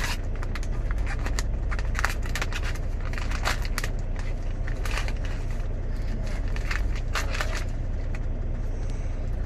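Plastic bags crinkling and rustling in irregular crackles as frozen shrimp are bagged by hand, over a steady low rumble.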